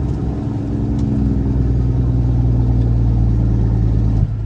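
Kenworth W900 diesel engine brake (Jake brake) sounding through the exhaust stacks with a deep, steady, even note, released abruptly near the end. The owner says it sounds good again out of the pipes.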